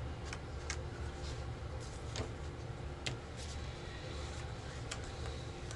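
Playing cards laid down on a table during a trick: a few light clicks and taps at irregular intervals, over a low steady hum.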